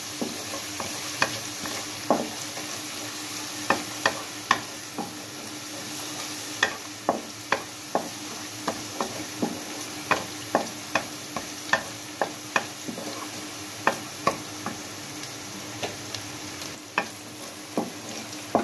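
Garlic-ginger paste frying in ghee with a steady sizzle in a metal karahi, stirred with a wooden spatula. The spatula gives frequent sharp taps and scrapes against the pan, irregular and roughly one or two a second. The paste is being fried until lightly browned.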